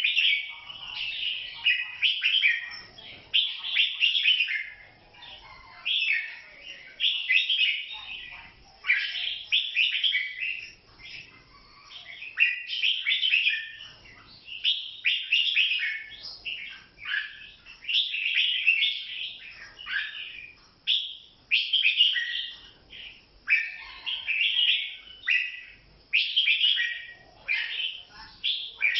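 Red-whiskered bulbul singing: a run of short, warbling phrases repeated every second or two with brief pauses between them.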